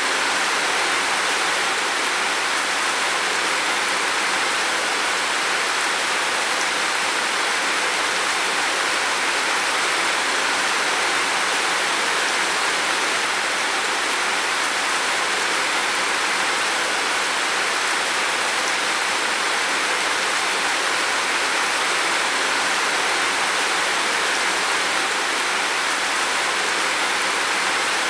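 Heavy rain on a roof: a dense, steady hiss of rainfall with no individual drops standing out.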